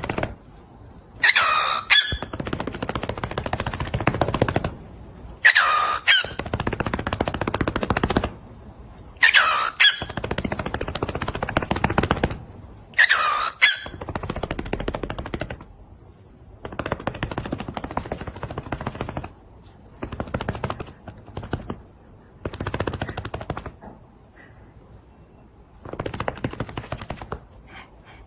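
Parrot repeating the same call four times, about every four seconds: a sharp sweeping squeak followed by a rapid rattle lasting a couple of seconds, like machine-gun fire. Several shorter rattles without the squeak follow.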